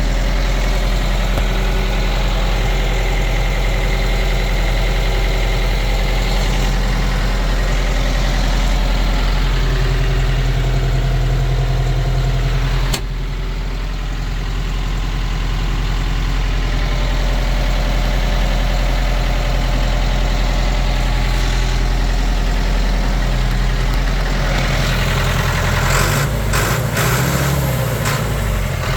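Ford 7610 tractor's diesel engine idling steadily, with a sharp click about halfway through and a few knocks near the end.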